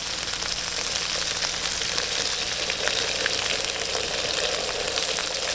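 Red chili and garlic paste frying in hot oil in a pan: a steady sizzle with scattered small pops.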